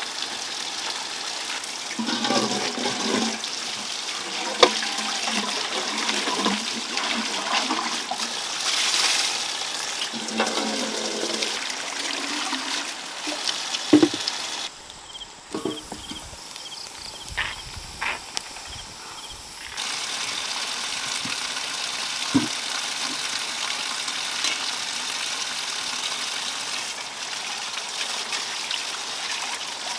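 Water running and splashing, with a few sharp knocks.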